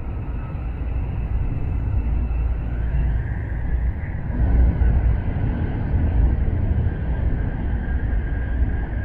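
Shinkansen bullet train running: a steady low rumble, with a faint high whine coming in about three seconds in.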